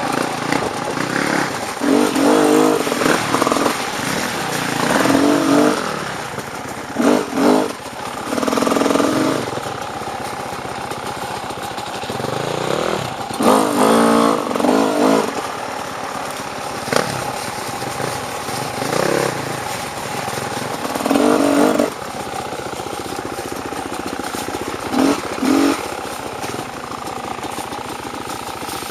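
Dirt bike engine running with repeated throttle bursts, rising and falling about ten times as the rider works the bike over off-road terrain.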